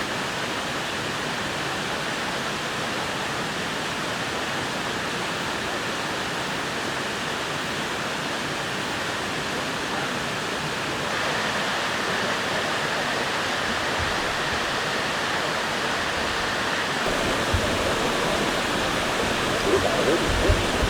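Mountain stream rushing steadily over rocks, an even wash of water noise, with a few low knocks near the end.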